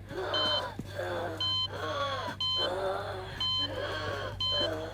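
An electronic alarm beeping about once a second, over moaning voices that waver up and down in pitch and a steady low hum.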